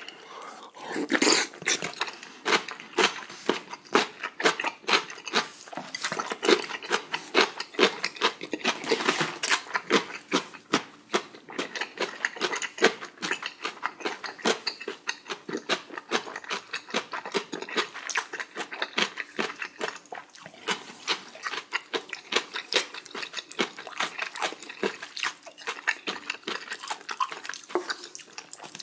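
Close-miked wet chewing of a mouthful of kimchi and spicy beef small-intestine hot pot: dense, irregular smacking and squishing mouth sounds.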